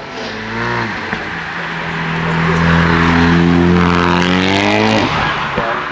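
A car engine accelerating hard: its note climbs steadily in pitch and grows louder for about four seconds, then cuts off abruptly about five seconds in.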